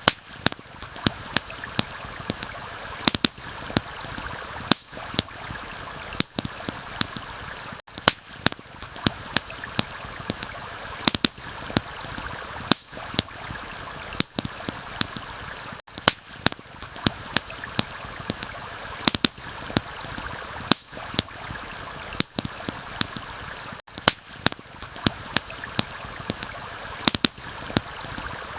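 Steady rushing of a stream with a campfire crackling over it: frequent sharp pops and snaps several times a second. Brief dips come about every eight seconds.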